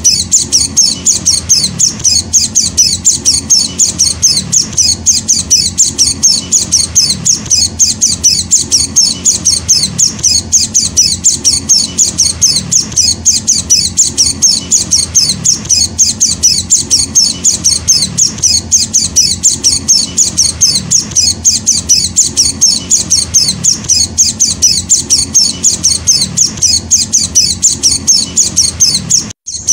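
Young hand-fed white-eye (pleci, Zosterops) calling nonstop: a rapid, even run of short, high, thin chirps, several a second, with a steady low hum beneath. The calls break off for an instant just before the end.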